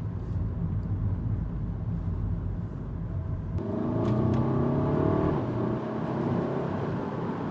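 Car engine and road rumble heard from inside the cabin; about three and a half seconds in, the engine note climbs as the car accelerates, then settles back to a steady rumble.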